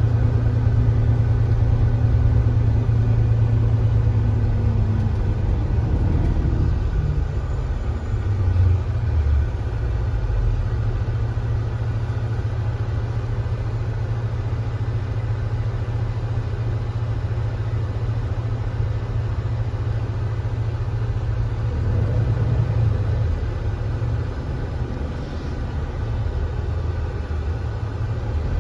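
Hyundai Granbird Sunshine coach engine running on the road. Its pitch falls about five seconds in as the revs drop, then it runs steadily, rising slightly about three quarters of the way through.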